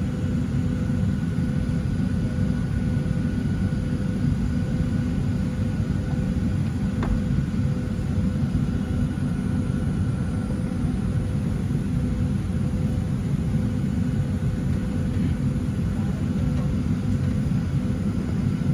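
Steady low rumble with a faint steady hum inside the cabin of a Boeing 737-700 on the ground before takeoff, with a single click about seven seconds in.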